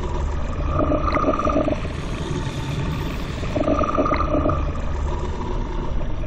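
Designed sci-fi digital hiss swooshes: a steady low rumbling noise bed with two swells of wavering electronic tones, one about a second in and one about four seconds in, each marked by a short blip. Between them a hissing sweep swells up and falls away.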